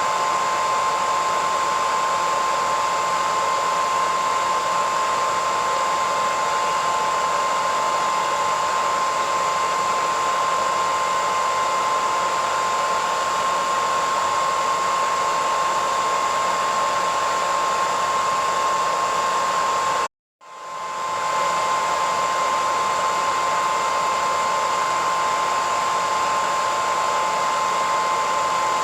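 Hairdryer running steadily: a rushing blow of air with a strong, steady high whine. About two-thirds of the way through it cuts out completely for a moment and fades quickly back in.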